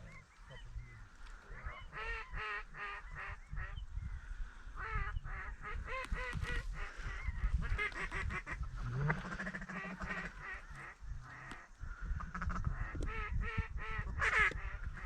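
Ducks quacking in mallard fashion, in repeated runs of several short quacks at a time, with wind rumbling on the microphone.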